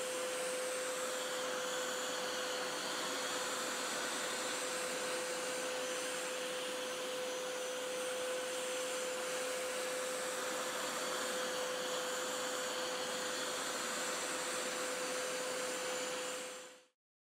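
Hoover Power Scrub Elite Pet carpet cleaner running steadily, its suction motor making a loud hiss with a steady hum-like whine; it cuts off suddenly near the end.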